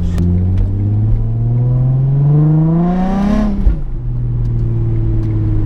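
Car engine idling, then revved up steadily for about three seconds and let fall back to idle.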